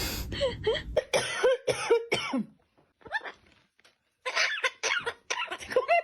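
Parrot mimicking a human cough: a run of short cough-like calls, a pause of over a second, then another run.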